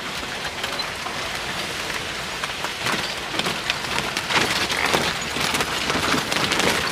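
Rain falling on a vehicle's roof and windscreen, heard from inside the cabin: a steady hiss with many small sharp drop impacts.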